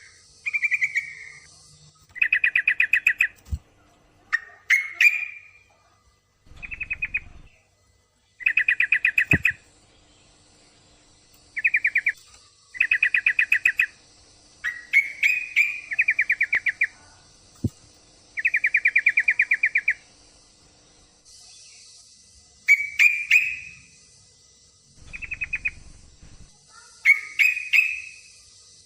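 Yellow-vented bulbul (trucukan) calling over and over: short, rapid, buzzy trills of about a second each, with sharper chattering notes between them. These are the calls of a female in breeding condition calling for a male. Short low rumbles come twice, about a quarter of the way in and near the end.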